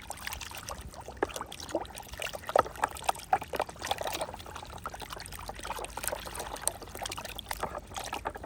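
Water pouring and trickling over a small plastic toy truck as it is washed, with irregular splashes and drips.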